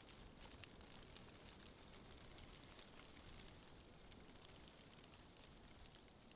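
Faint, steady wind-and-rustle ambience: a soft even hiss with scattered light crackles and ticks.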